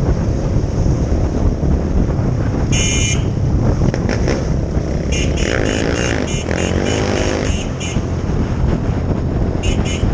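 A 2004 Honda CRF450R's single-cylinder four-stroke engine running steadily. Short higher-pitched chirping tones come and go over it.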